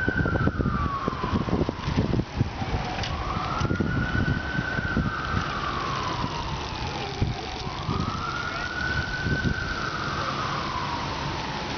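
Emergency vehicle siren in a slow wail: a single tone rises quickly, then falls slowly, about three times, each cycle taking roughly four seconds. A low, uneven rumble runs underneath.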